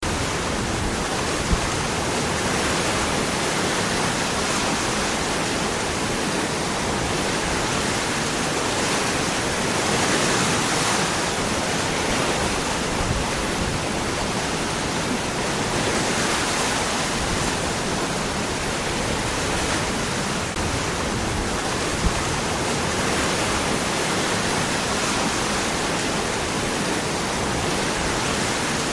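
Waterfall: water falling and rushing over rocks in a steady, dense roar, with slight swells in strength.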